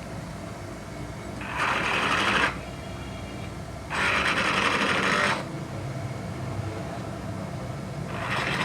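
Two bursts of quick back-and-forth abrasive rubbing on a metal engine part, each about a second long, with a shorter burst near the end. The part is being rubbed down a little at a time to bring it level.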